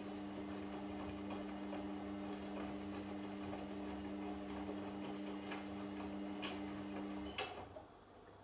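Washing machine running, its drum motor giving a steady low hum with a few light clicks from the tumbling load. About seven seconds in the motor stops with a click, leaving only a faint hum.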